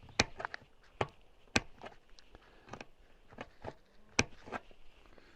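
Sheet-metal roofing trim being cut and bent by hand: a string of irregular sharp metallic clicks and taps, four of them louder than the rest.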